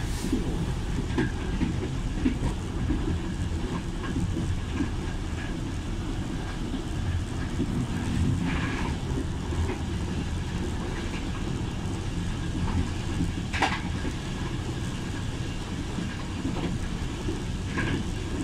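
Train running at speed downhill along the track: a steady low rumble of wheels on rail with faint light clicks, and one sharp click about two-thirds of the way through.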